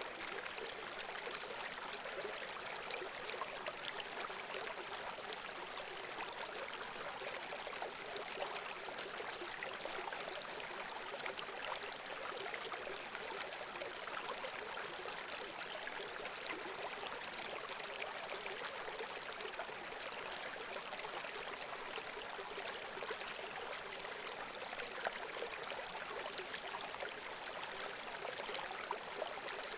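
Running water babbling steadily, with no breaks or sudden changes.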